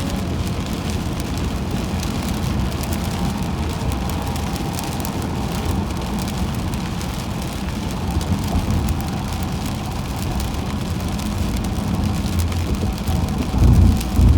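Car driving on a wet highway in rain, heard from inside the cabin: steady low road and tyre rumble with a hiss of rain and spray. A couple of heavier low thumps come near the end.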